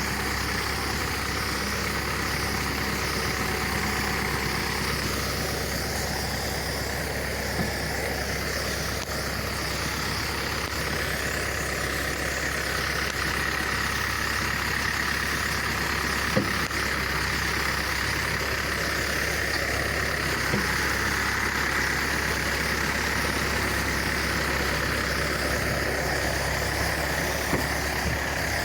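Kubota engine running steadily, driving a high-pressure sprayer pump for spraying weedkiller, with a few light clicks along the way.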